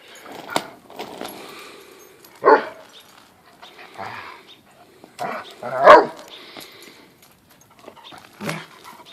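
Catahoula leopard hound barking in play while wrestling a goat: a few separate barks, the loudest about six seconds in.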